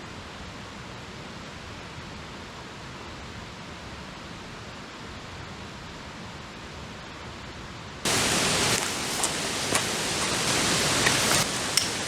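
Steady rush of a mountain stream's flowing water. About eight seconds in it cuts abruptly to a louder, brighter rush with a few sharp clicks.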